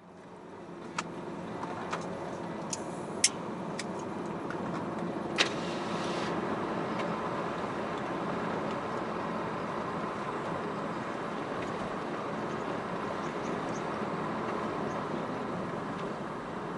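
Steady running noise of a vehicle on the road, fading in at the start. Several sharp clicks or knocks come in the first six seconds, the loudest about three seconds in.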